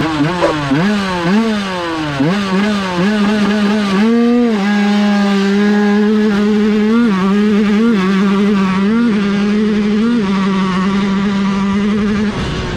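Dirt bike engine accelerating hard, its pitch climbing and dropping with each quick gear change, then holding a steady high-pitched note at full throttle with a few brief dips before cutting off near the end.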